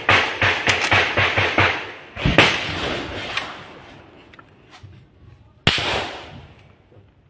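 Gunfire: a quick run of shots about four a second, then two heavier single bangs with long echoing tails, about two seconds and six seconds in.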